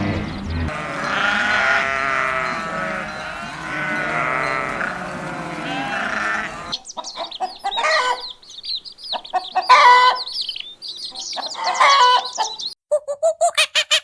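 Farm animals calling: a dense chorus of many overlapping calls for about six seconds, then after a sudden cut a few separate loud calls about two seconds apart, and near the end a run of quick, even squeaks.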